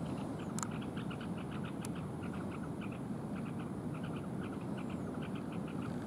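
A small bird calling in a fast, steady run of short chips, several a second, over a steady low rumble, with two sharp clicks in the first two seconds.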